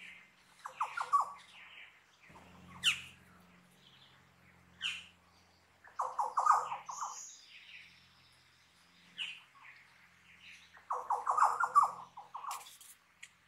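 Wild forest birds calling in the Australian bush: three bursts of rapid chattering notes, about a second in, around six seconds and around eleven seconds, with single sharp rising whistles between them.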